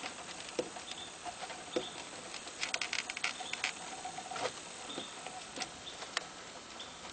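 Scattered clicks and light rattling, with a quick run of clicks about three seconds in: an amp clamp being fitted around the compressor wire and the wires around it being handled.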